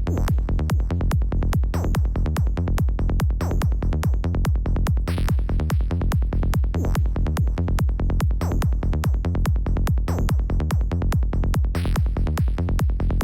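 Psytrance loop played on the Serum software synthesizer: a fast, even run of short synth notes with heavy low end, the classic psychedelic trance sound, with a brighter sweep about every seven seconds.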